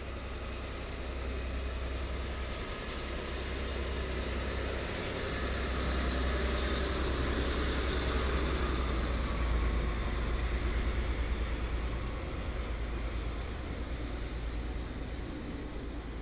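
A train passing through the station: a steady low hum under a rushing noise that grows to its loudest about ten seconds in, then eases.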